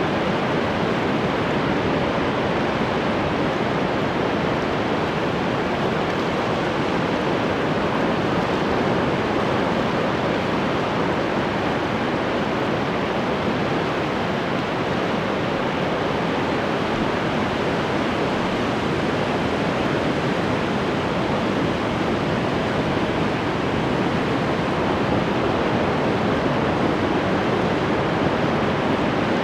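Ocean surf, a steady unbroken wash of waves with no distinct swells rising and falling.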